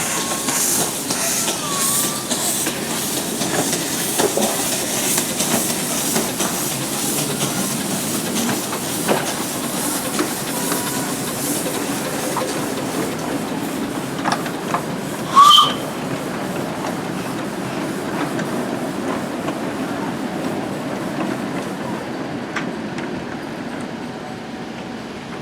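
Miniature railway train running, with a steady hiss and a run of evenly spaced beats in the first few seconds. A short, high whistle blast sounds about fifteen seconds in.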